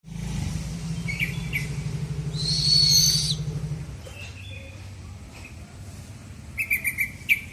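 Buffy fish owl calling: short high calls, a longer shrill call about three seconds in, and a quick run of about five short calls near the end, over a low rumble in the first half.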